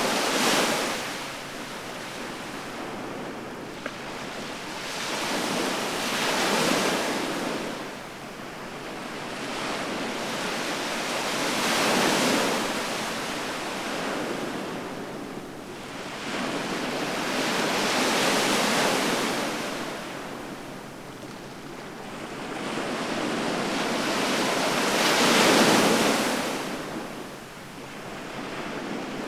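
Ocean surf breaking on the shore, with waves washing in one after another about every six seconds, each one swelling up and falling away. The fifth wave, near the end, is the loudest.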